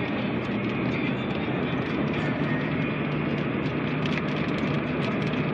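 Heavy rain hitting a car's roof and windshield in many quick irregular ticks, over steady engine and road noise, heard inside the car's cabin.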